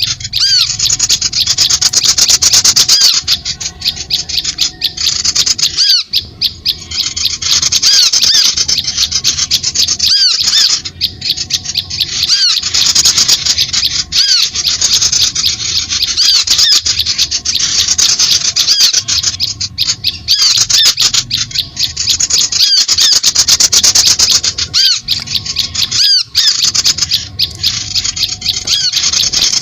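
Recorded bird calls played as a bird lure: loud, rapid, harsh chattering with repeated arched call notes, in bursts broken by brief pauses every few seconds.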